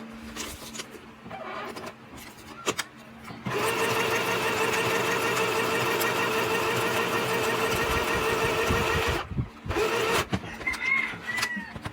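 Sew Simple K1127 electric sewing machine motor running steadily for about six seconds, sewing a stitch pattern, then running again briefly. A few clicks of handling the machine come before it starts.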